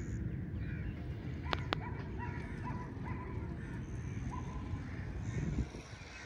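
Birds calling in a series of short, repeated notes over a steady low rumble, with two sharp clicks about a second and a half in.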